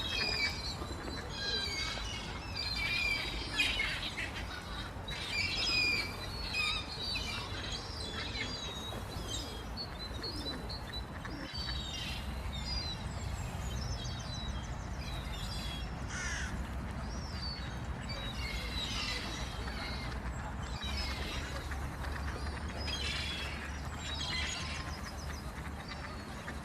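Birds chirping and calling, many short high calls packed together over the first several seconds, then scattered, over a steady low rumble.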